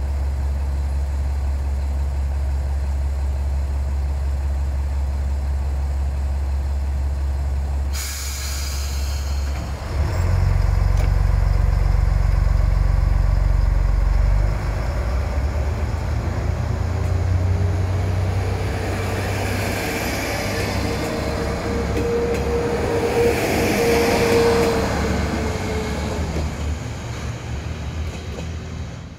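Diesel railcar idling at the platform with a steady low engine hum; about eight seconds in a hiss sounds as the brakes release, then the engine revs up and the train pulls away, its engine and wheel noise passing with a drawn-out whine and fading as it leaves.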